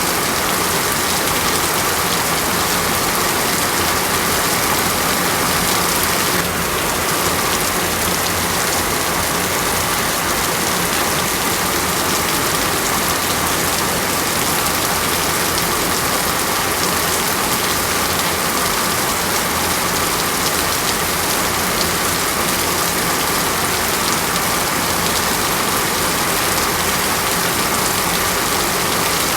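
Steady rain falling, an even wash of noise with no break.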